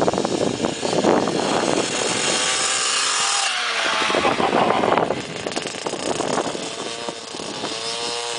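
KTM 50 kids' dirt bike's small two-stroke engine revving hard as the bike is ridden, its pitch dropping a little midway, then running quieter in the second half.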